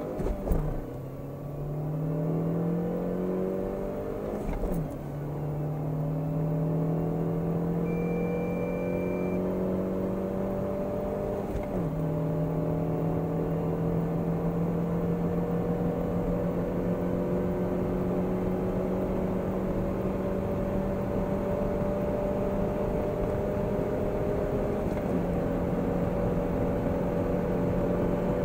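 The 2018 SsangYong XLV's 1.6-litre four-cylinder petrol engine, heard from inside the cabin at full throttle, rising in pitch through the gears of its six-speed manual gearbox. The pitch drops at each of four upshifts: into third just after the start, fourth about five seconds in, fifth about twelve seconds in and sixth near the end, with each climb slower and longer than the last. A short steady beep sounds about eight seconds in.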